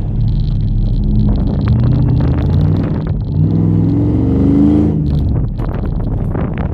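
Chevrolet Silverado pickup's engine under throttle on an autocross course, its pitch climbing as it revs up about three and a half seconds in, then dropping off near five seconds as the throttle lifts.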